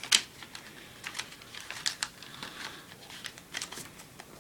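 Sheet of notebook paper being handled and folded: an uneven run of short crinkles and crisp scrapes as it is creased, the loudest a sharp crackle right at the start.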